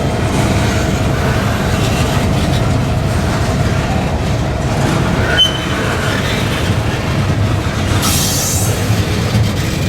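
Freight train running on the rails: a steady low rumble of wheels and railcars, with a short high squeal about five seconds in and a brief hiss-like burst of high noise near the end.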